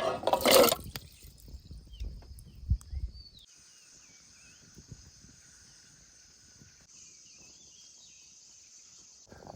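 Taro pieces tipped into a pot of water with a loud splash and clatter, followed by a few knocks. After about three and a half seconds this gives way to a faint steady insect drone with small chirps.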